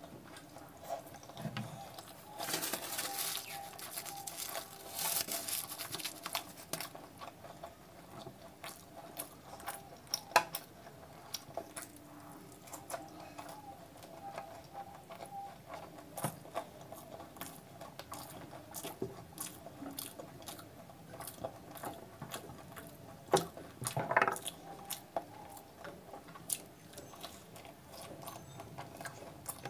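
Close-miked eating sounds: chewing and wet mouth clicks while eating deep-fried puri dipped in curry. A louder noisy stretch comes a few seconds in, and a few sharper smacks come later, near the middle and toward the end.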